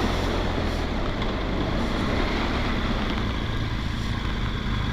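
BMW R1200GS boxer-twin engine running steadily while riding along, with wind rushing over the microphone.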